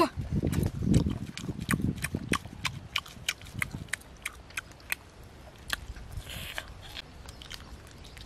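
A person chewing grilled fish with wet lip-smacking clicks, about two or three a second, fading toward the end.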